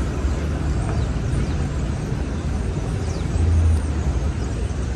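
City street traffic: a steady low rumble of passing cars and engines, with one vehicle briefly louder and lower about three and a half seconds in.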